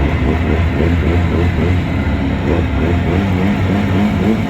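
Twin two-stroke jet outboard motors on a jon boat running steadily under way.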